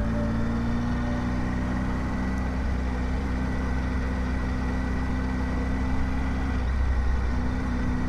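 Triumph Tiger motorcycle engine running at a steady speed, with a steady rush of wind and road noise over it.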